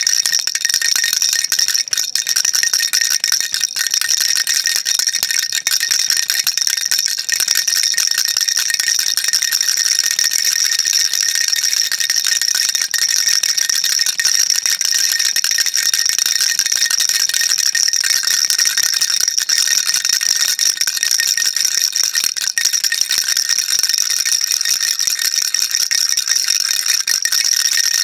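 Baby rattle shaken without a break, a dense, even, high-pitched rattle of small beads inside the toy.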